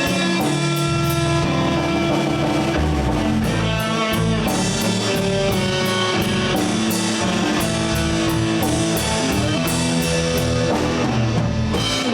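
Live blues band playing an instrumental break: electric guitar lead over bass guitar and a drum kit.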